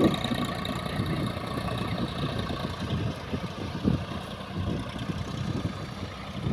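Tractor diesel engine running steadily at a low, even speed.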